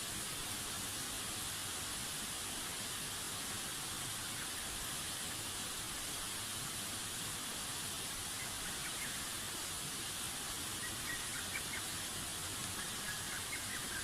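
Steady even outdoor hiss, with faint short high chirps in the last few seconds.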